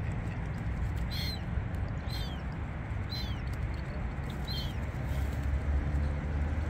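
A bird calling four times, short high chirps that fall in pitch, about a second apart, over a steady low rumble.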